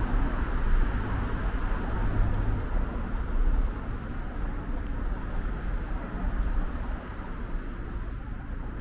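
Steady outdoor city background noise with a low rumble like traffic, slowly getting quieter.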